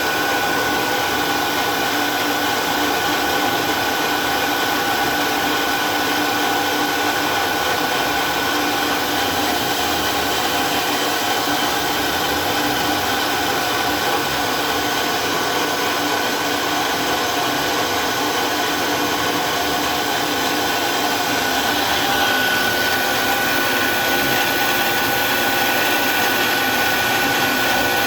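CNC milling machine running with a steady high spindle whine over a noisy motor sound; the whine grows a little stronger near the end.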